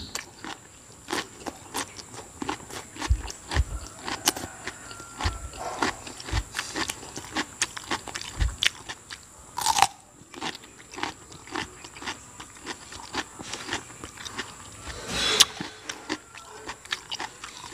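A person biting into a raw cucumber and chewing, with many small crisp crunching ticks and a few dull low thuds.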